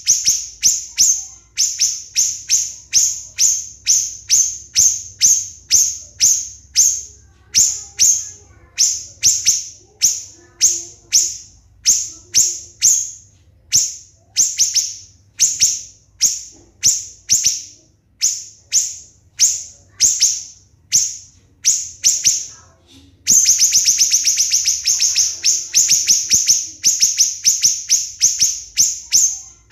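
Siri-siri bird singing loud, sharp, high chip notes, each a quick downward stroke, repeated two to three times a second. Past the middle it breaks into a dense fast rattle for about four seconds, then returns to separate notes.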